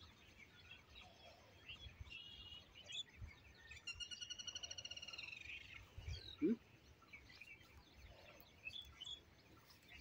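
Faint bird chirps and calls, including one rapid trill lasting about a second and a half around the middle. A soft low thump comes a little after it.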